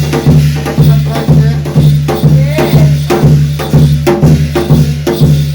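Korean shaman-ritual (gut) percussion music: drum and metal percussion strokes in a steady, even beat of about two to three strokes a second.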